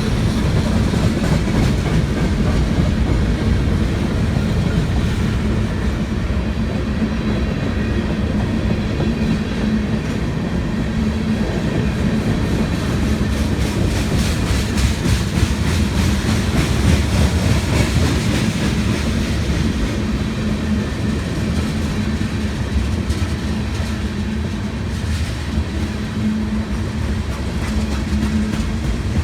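A train's cars rolling past on the rails, a steady clatter of wheels over the track.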